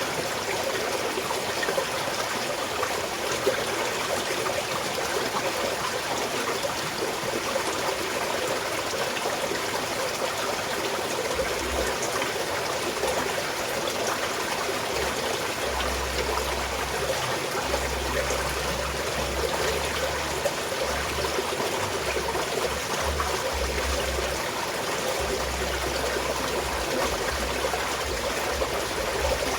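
Small mountain stream flowing and trickling steadily over rocks. A deep low rumble comes and goes from about a third of the way in.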